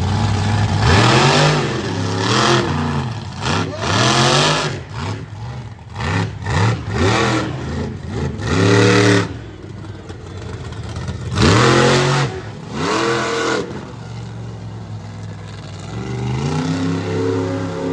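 Monster truck engine revved hard in repeated bursts, each rising and falling in pitch, with a run of short, sharp throttle blips in the middle and a lower rumble between bursts.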